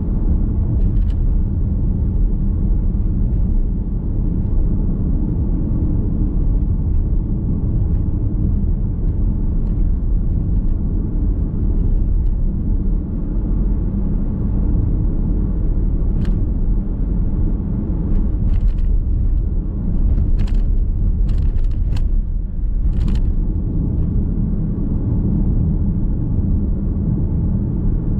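Car driving on a road heard from inside the cabin: a steady low rumble of tyre and engine noise, with a few brief sharp ticks in the second half.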